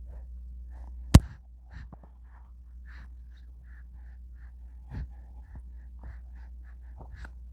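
A baby making small breathy sounds: short gasps, sighs and soft little vocal noises, over a steady low hum. A sharp click comes about a second in.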